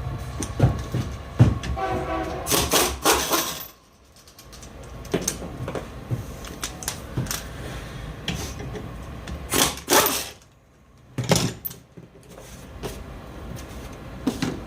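A passing train: a steady rumble with the train's horn sounding about two seconds in. Several sharp clanks stand out over it, loudest near the start and about ten seconds in.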